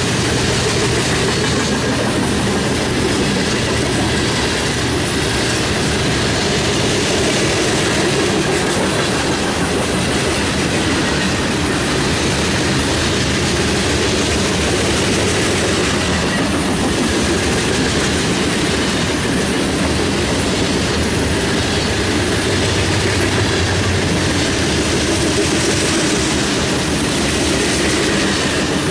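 Union Pacific grain train rolling steadily past, its cars' wheels clattering over the rail joints in a continuous loud rumble.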